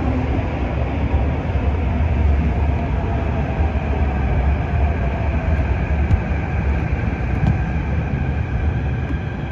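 Kawasaki & CRRC Sifang CT251 metro train pulling into the station and braking: a steady low rumble of wheels on rail with a motor whine slowly falling in pitch as it slows.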